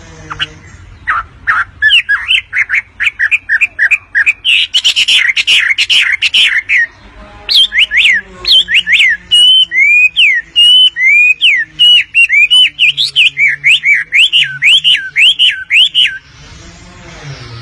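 Wambi bird singing hard: a loud, fast run of sharp chirping notes, several a second, each slurred steeply in pitch. There is a short break about halfway through, and the song stops about a second and a half before the end.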